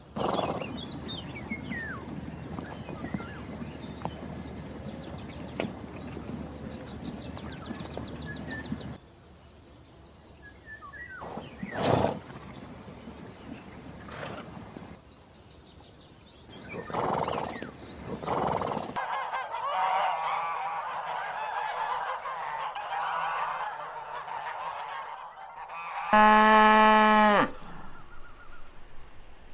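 Farmyard fowl calling in a sequence of separate clips: faint chirps over outdoor noise, then a flock's busy honking chatter, and near the end one loud, drawn-out call lasting about a second and a half.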